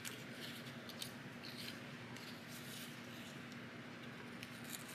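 Faint rustling and soft light ticks of paper being handled and folded by hand, over a steady low electrical hum.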